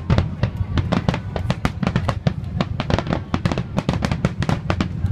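Fireworks crackling in a dense, irregular run of sharp cracks, many to the second, over a low rumble, with music playing underneath.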